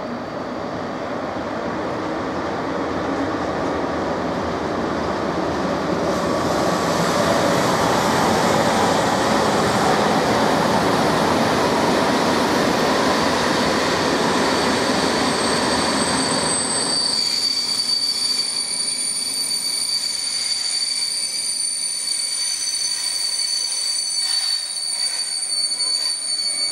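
Passenger train of coaches rolling into the station, its running noise on the rails growing louder. About two-thirds of the way through the rumble drops away, and steady high-pitched squealing as the train draws to a stop takes over, with a few sharp clicks near the end.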